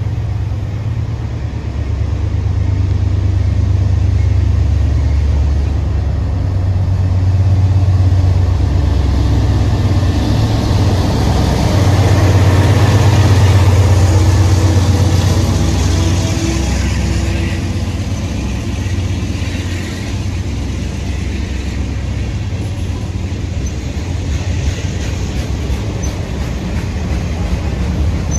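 A CSX freight train's diesel locomotive passes close by, its low engine drone swelling to its loudest about halfway through. The freight cars then roll past with the noise of their wheels on the rails.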